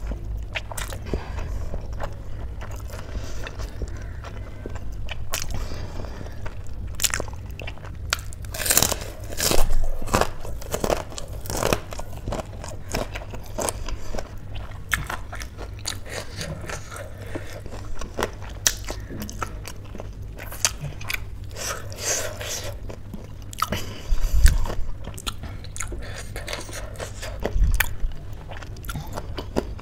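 Close-miked chewing of a mouthful of spicy instant noodles, with irregular wet clicks of the mouth and teeth throughout.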